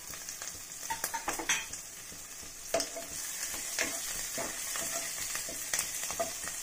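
Chopped garlic, grated ginger and green chilli sizzling in hot oil with cumin seeds in a kadhai, with a steady frying hiss. A spatula scrapes and stirs them in irregular strokes against the pan.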